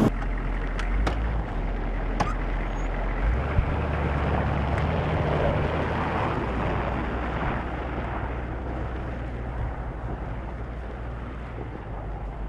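An engine running steadily at a low, even pitch, with wind noise and a few sharp knocks in the first couple of seconds; it slowly gets quieter.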